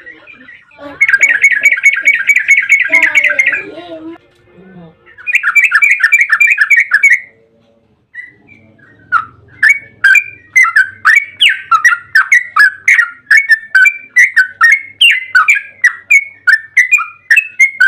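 Yellow-vented bulbul (trucukan) singing loudly: two fast rattling bursts of notes, then from about halfway a long run of sharp, quick calls, about three a second.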